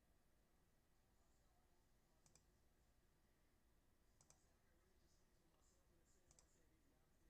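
Near silence broken by a handful of faint, short computer-mouse clicks, spread irregularly through the stretch.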